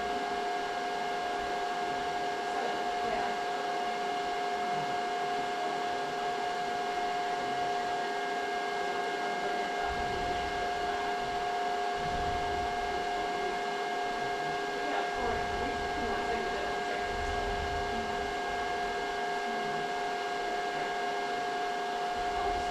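Machinery running steadily at one constant speed, with a steady high whine on top of the engine noise.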